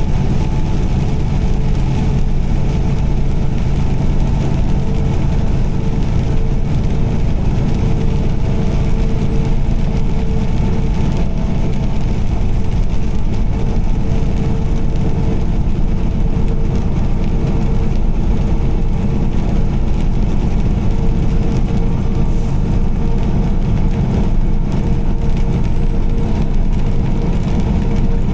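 Steady drone of a car driving at highway speed: engine and tyre noise with a faint steady hum.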